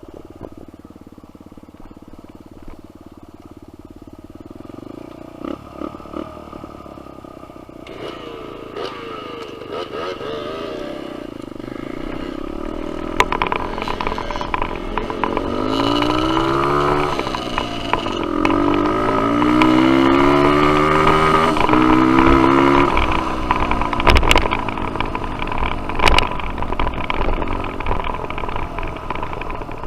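Dirt bike engine on a trail ride, revving up and down with its pitch climbing and dropping again and again. It is quieter at first and gets louder from about a third of the way in, with a couple of sharp knocks near the end.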